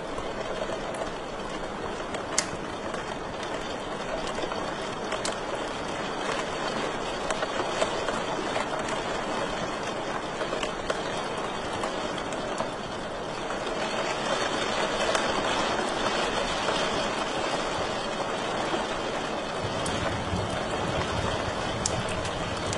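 Fire crackling in a fireplace: a steady hiss with a few sharp pops scattered through.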